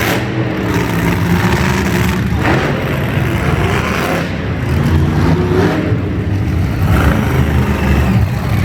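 Monster truck engines running loud and revving, the engine note surging up and down several times.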